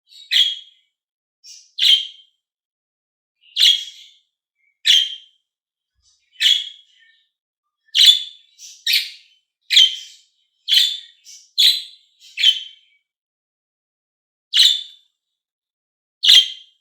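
Small pet parrots (love birds) giving short, sharp single chirps, about one a second, coming quicker together around the middle.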